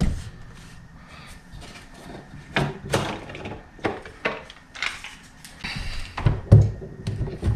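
DeWalt door lock installation jig being unclamped and taken off a wooden door: a string of irregular knocks and clicks as it is handled against the door.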